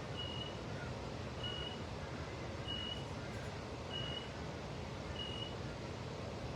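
A short high electronic beep repeating about once every 1.2 seconds, five times, then stopping, over a steady low rumble.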